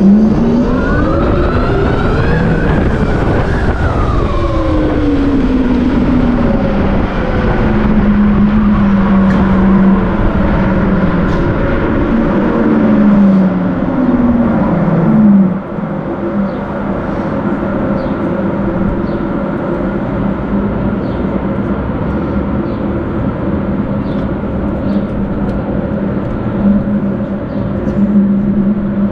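Tarform Luna electric motorcycle's drive whine rising in pitch as it accelerates and falling as it slows, several times over about the first fifteen seconds. It then holds a steady pitch, with road and wind noise underneath.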